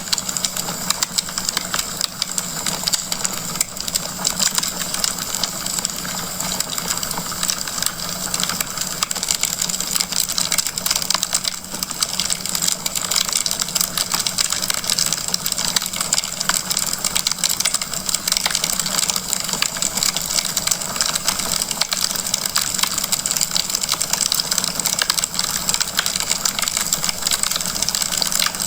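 Wood fire burning in a fireplace, crackling steadily: a dense stream of small pops and snaps over a soft hiss.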